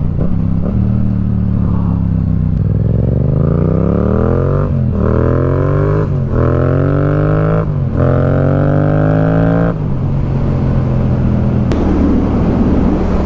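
Motorcycle engine, noisy exhaust, accelerating hard through the gears: the pitch climbs steadily, with quick upshifts about five, six and eight seconds in. Near ten seconds the throttle is rolled off and the engine settles into a steady cruise under wind noise.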